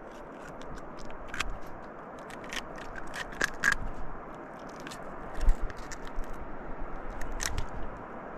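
Knife cutting and scraping at a jundiá catfish while cleaning it: irregular short scrapes and crunching clicks, several a second, with a few louder strokes.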